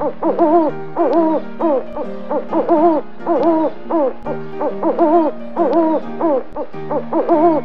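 Owl hooting in a quick string of short calls, about three a second, each rising then falling in pitch, over soft background piano music.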